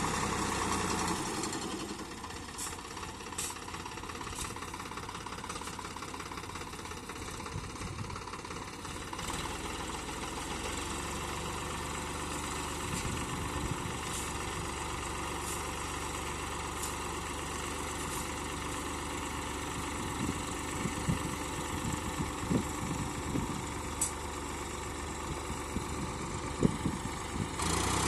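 Tractor's diesel engine running steadily at low revs, with a few sharp knocks in the later part.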